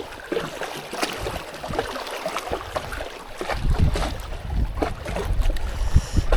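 Strong wind buffeting the microphone, with a low rumble that grows heavier about halfway in, over small splashes of water lapping.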